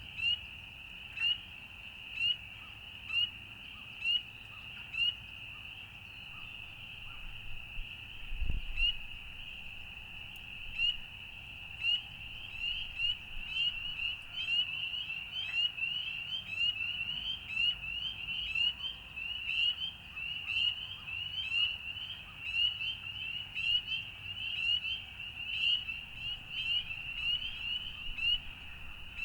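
Frogs calling in short, high, slightly rising peeps, at first about one a second, then joined by many more until they overlap in a dense chorus. There is one low thump about eight seconds in.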